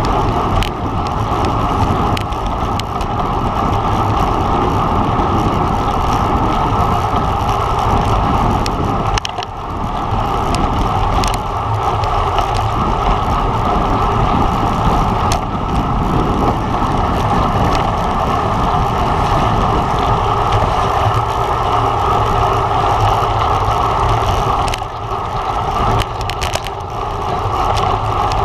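Steady wind rush and road rumble from a road bike ridden at speed in a race, with scattered sharp clicks and knocks.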